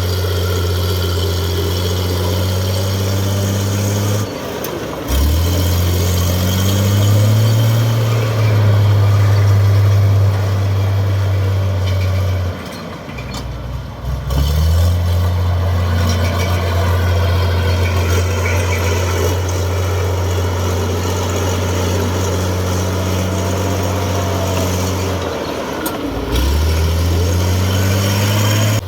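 Heavy diesel engine of a bulldozer or dump truck running steadily. Its pitch drops three times, about 4 seconds in, about 13 seconds in and near the end, and climbs back up each time as the engine bogs under load or is throttled down and picks up again.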